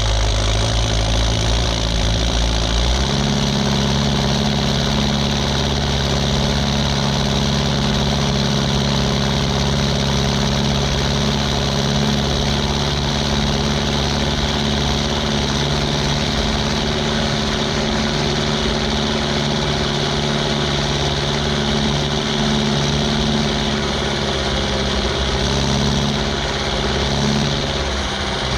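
Ursus 1014 tractor's four-cylinder turbo diesel running on a straight pipe, a steady deep drone. Engine speed rises about three seconds in, holds, then drops back near the end.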